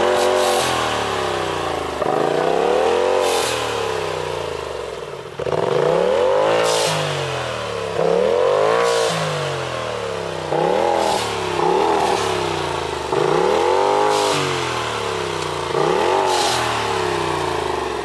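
Polaris RZR Turbo S's turbocharged twin-cylinder engine, straight-piped through an Agency Power exhaust, revved repeatedly, about once every two seconds. Several revs end in a short hiss from the turbo blow-off valve.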